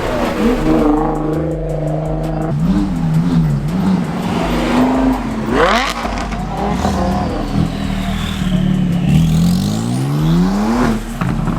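Car engines running and revving, rising sharply in pitch about six seconds in and again several times near the end.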